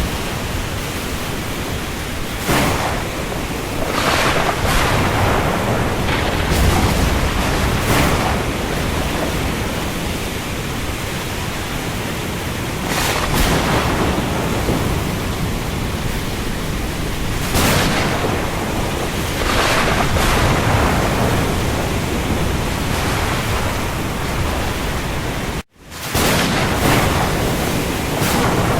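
Steady rain over the open sea, a dense even hiss, with waves surging and washing every few seconds. The sound cuts out for a split second about 26 seconds in, then resumes.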